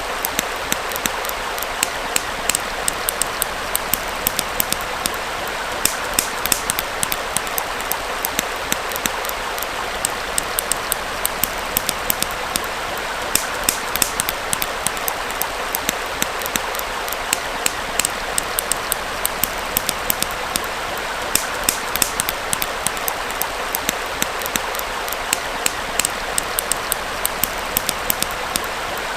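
Campfire crackling with frequent sharp, irregular pops over the steady rush of a small stream.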